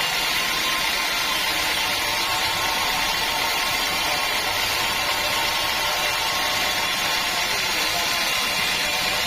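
Sawmill saw running steadily, an even hiss with a faint steady hum under it.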